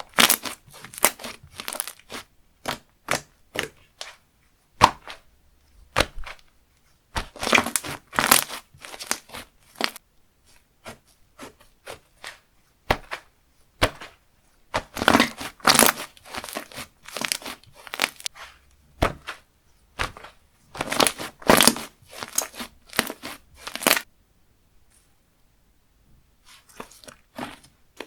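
Slime being handled and pressed by hand, giving runs of sharp crackling and popping clicks. The clicks come in dense bursts, about a third of the way in, around the middle and in the last third, with a short quiet spell near the end.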